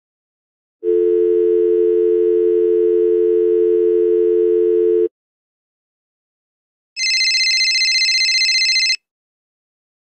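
Telephone dial tone sound effect: a steady pair of low tones held for about four seconds. After a two-second gap comes a higher electronic tone with a fast flutter, lasting about two seconds.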